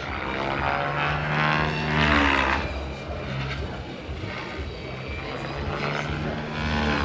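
Radio-controlled model helicopter flying: its motor whine and rotor hum rise and fall in pitch as it manoeuvres.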